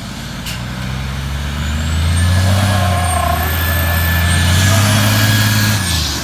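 Heavy fire-apparatus diesel engine pulling away, building over the first two seconds and then holding a steady drone, with a high whine rising and wavering above it. There is a single sharp click about half a second in.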